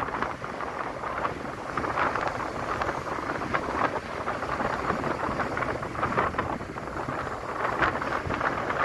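Wind buffeting the microphone: a steady rough rush with irregular gusty flares.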